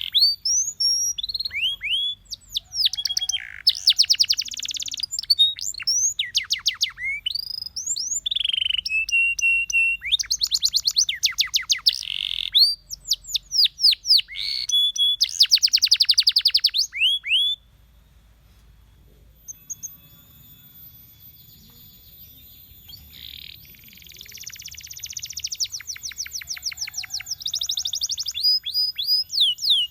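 Domestic canary singing: fast trills of rapidly repeated, sharply falling notes and rolled phrases, broken by brief pauses. The song drops away a little past halfway, then builds back into dense trills near the end.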